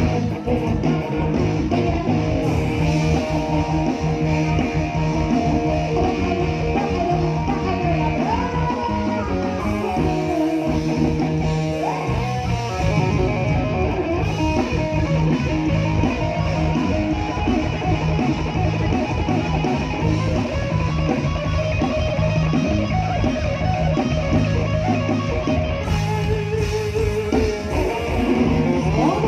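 Live band music with guitar to the fore over a steady drumbeat and bass, playing without a break.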